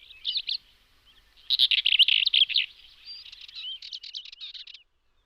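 A small songbird singing: a short burst of high chirps, then a dense, rapid twittering phrase about one and a half seconds in, trailing off into scattered notes before the end.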